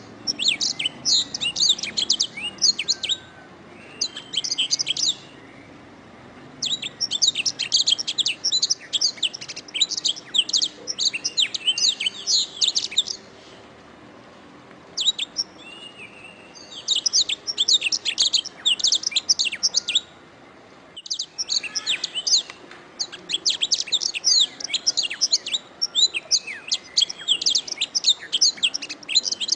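Domestic canary singing in long bouts of rapid chirps and trills, high-pitched, broken by several short pauses of one to three seconds.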